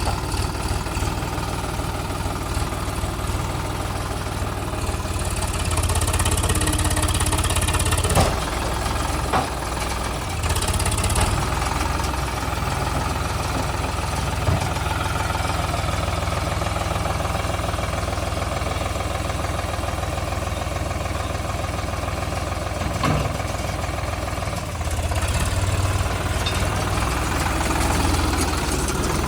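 Diesel engine of a JCB 3DX backhoe loader running steadily while it works, pulling harder and louder for a few seconds at a time, with a few sharp clanks.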